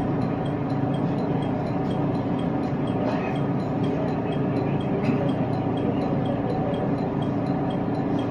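Steady rumble and hum of a train heard from inside a passenger car, with a faint brief clatter about three seconds in.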